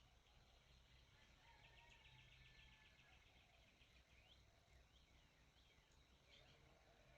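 Near silence with faint birdsong: a quick trill of repeated chirps, then a few short down-slurred calls.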